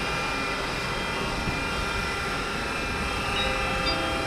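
A long freight train rolling through the station: a steady rumbling noise with several steady high tones running through it.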